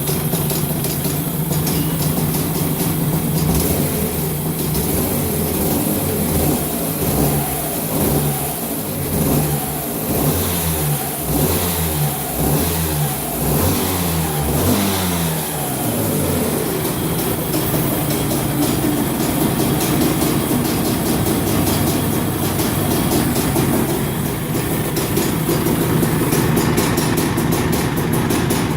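Rotax Max Senior 125cc two-stroke kart engine running steadily, then blipped up and down repeatedly for about ten seconds, then settling back to a steady idle.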